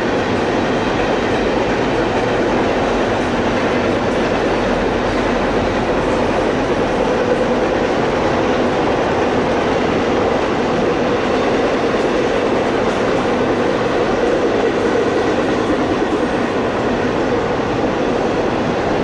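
Double-stack intermodal freight train rolling past: the steady noise of the well cars' wheels running on the rails, loud and unbroken.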